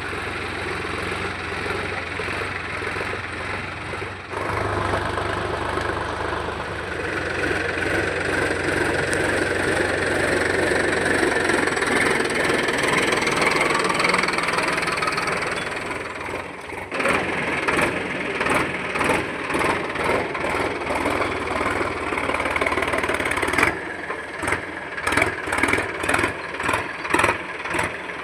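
Tractor's diesel engine running under load, likely pulling a cultivator. The sound is steady at first; from a little past halfway it pulses unevenly, about twice a second.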